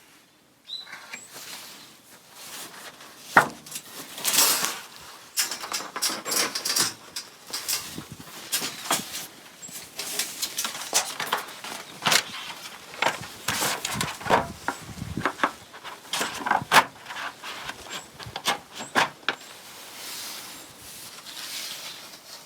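Metal plates of a BUNDOK Lotus folding fire pit knocking, clinking and scraping against each other as they are fitted together and their claws are hooked in, in irregular handling sounds with several sharper knocks.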